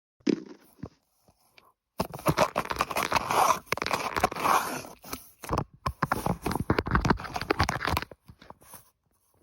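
Close, rapid crunching and crackling: a dense run of sharp crackles lasting about six seconds, with a couple of isolated clicks before it and a few faint ones after.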